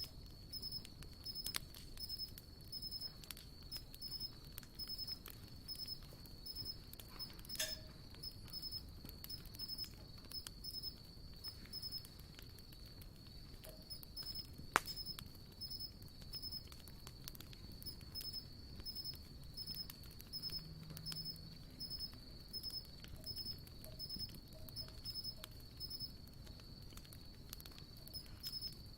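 Campfire crackling with scattered small pops and one sharp pop about halfway, under a high-pitched insect chirping in a steady, even rhythm.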